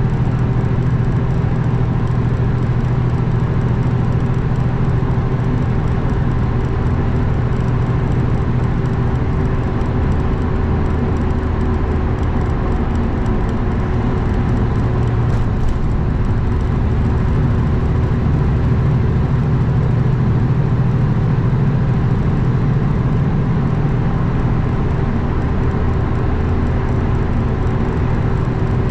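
Kenworth W900 semi-truck running at a steady cruise: a constant low diesel engine drone with road and wind noise, no shifts or changes in speed.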